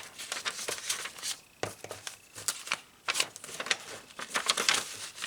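Paper pages of a handmade ring-bound journal being turned and handled, with irregular rustling, crinkling and light taps.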